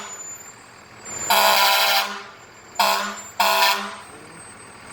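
Fire engine's air horn sounding three blasts: one long, then two shorter ones in quick succession.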